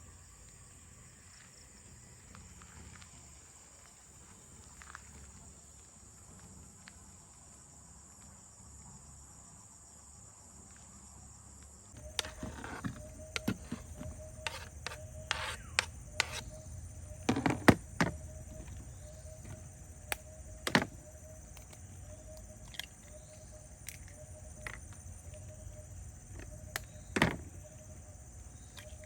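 Steady high buzz of forest insects. About halfway through, a run of sharp clicks and knocks begins, with a faint repeating tone beneath them.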